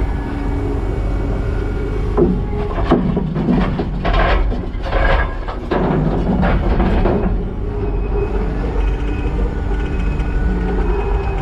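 Skid steer's diesel engine running steadily, with a few seconds of scraping and knocking from about two seconds in: concrete slabs grating and clunking against the loader bucket as they are lifted and loaded.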